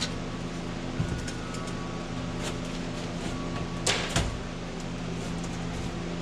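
A steady low hum, with a single light knock about a second in and a short rustling scrape about four seconds in.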